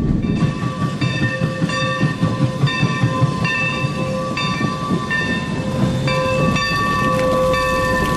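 Skunk Train passenger train running slowly with a low rumble, and a high metallic squeal from its running gear that cuts in and out every half second or so as it slows to stop at the station.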